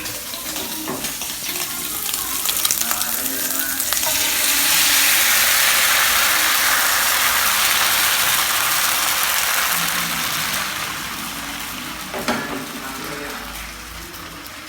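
Bánh xèo batter and oil sizzling in a hot pan as a steady hiss that grows much louder about four seconds in and dies down near the end, with a few light clicks.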